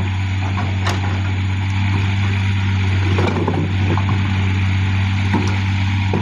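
Heavy diesel machinery running steadily with a strong low hum, with scattered short clanks and knocks over it.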